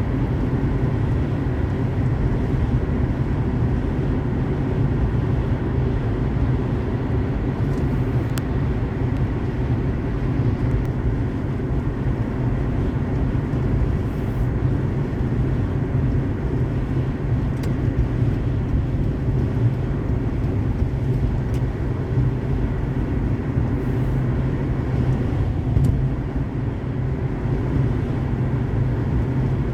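Car driving on a highway: a steady low rumble of road, tyre and engine noise, with a few faint sharp ticks scattered through it.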